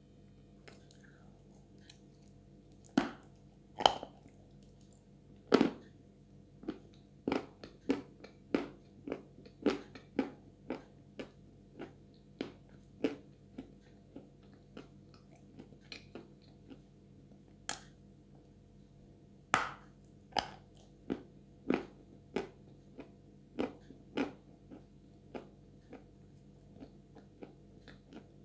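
Close-up crunching and chewing of a dry chunk of Chuy edible clay coated in clay paste: irregular sharp crunches, about one or two a second, with a few louder bites among them.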